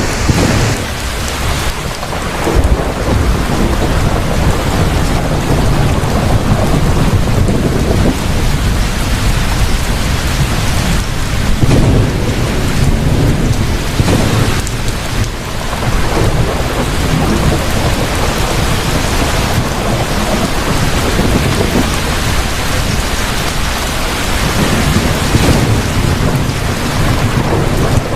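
Heavy rain falling steadily, with low rolling thunder rumbling and swelling several times.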